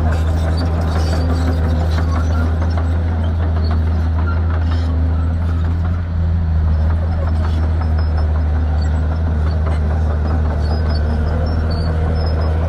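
Shantui bulldozer's diesel engine running steadily, a constant low drone with a light rattle over it.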